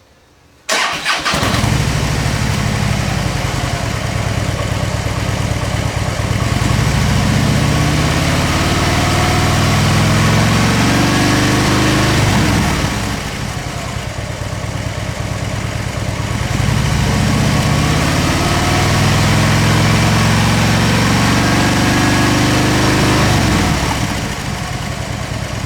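Harley-Davidson Dyna Switchback V-twin through Vance & Hines Twin Slash slip-on mufflers, starting up suddenly under a second in and idling. It is then twice brought up to higher revs, the pitch climbing slowly over several seconds and dropping back to idle.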